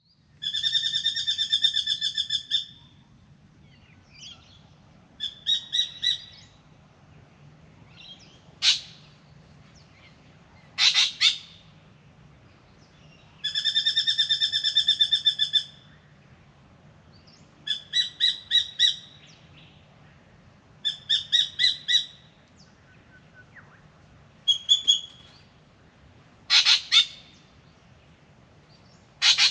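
Spangled drongo singing. It gives long runs of rapid buzzy, metallic notes about two seconds each, short groups of a few clipped notes, and single sharp sweeping notes, with pauses between phrases.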